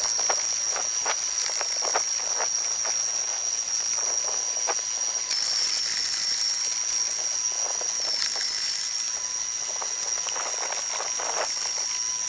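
Electric power tool motor running with a steady high whine and hiss, over irregular cracking and snapping of wood being cut or crushed. The pitch dips briefly under load twice.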